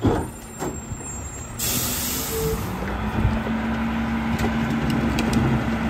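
Garbage truck: two knocks, then a sudden loud hiss of its air brakes about a second and a half in, followed by the diesel engine running with a steady hum that rises slightly and holds.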